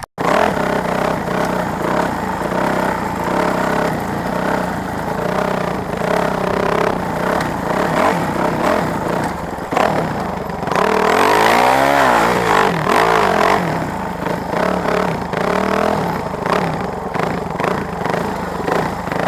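Motorcycle engines running steadily, with one revving up and back down about two-thirds of the way through.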